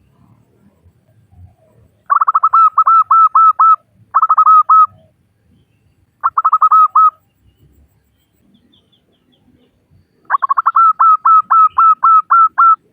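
Female zebra dove calling to males: four bouts of rapid, evenly repeated staccato notes, the last and longest near the end.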